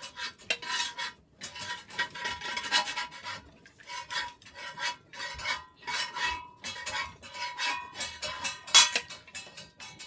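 Metal utensils scraping and clinking against a metal dish in quick, irregular strokes, several a second, with one louder strike near the end.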